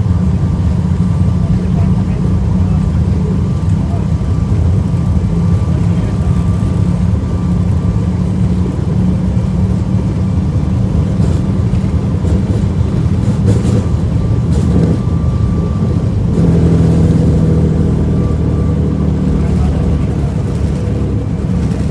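Airliner engines and cabin air running with a steady low rumble and a thin steady whine over it; the rumble grows fuller about sixteen seconds in.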